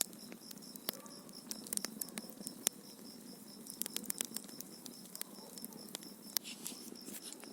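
Wood fire crackling, with frequent sharp pops and snaps over a soft steady hiss. A high, even chirping repeats about five times a second throughout.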